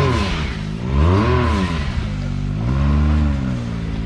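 Side-by-side UTV engine revved in repeated surges, the pitch climbing and falling back about once a second, with a longer held rev late on, as the machine works its way up a rocky ledge.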